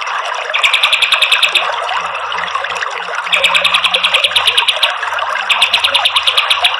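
Kapas tembak songbird calling in rapid trills of evenly repeated high notes, about ten a second, in three bursts of one to one and a half seconds each. A continuous hiss of background sound runs underneath.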